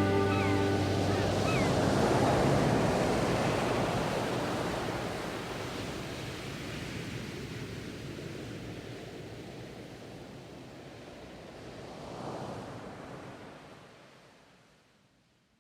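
Storm surf on the Bay of Fundy: waves rushing and breaking, with one wave swelling up about twelve seconds in, the whole sound fading out near the end.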